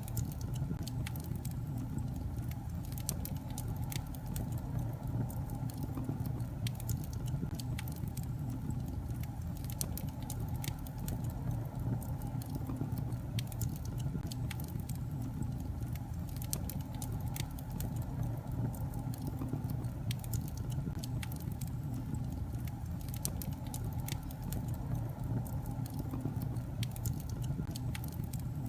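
Wood fire burning in a fireplace: a steady low rumble of flames, with irregular sharp crackles and pops from the logs.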